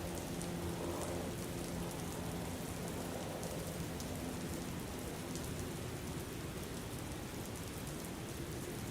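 Steady rain ambience: an even hiss of rainfall with scattered drop ticks. A faint low steady hum fades out in the first second or two.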